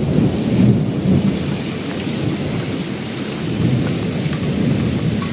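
A heavy downpour in a storm, with a continuous low rumble under the hiss of the rain that rises and falls without any single sharp crack.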